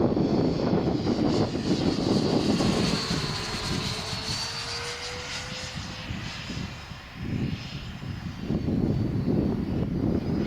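Twin electric ducted fans of a Freewing Me-262 RC jet whining as the model flies past: a high whine swells and fades through the middle. Gusting wind buffets the microphone with a low rumble at the start and again near the end.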